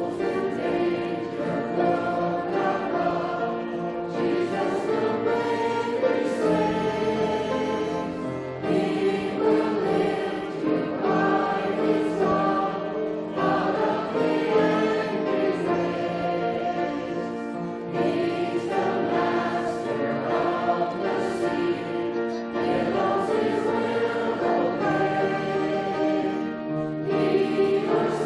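A choir singing a hymn with instrumental accompaniment, sustained chords changing every second or two over a steady bass line.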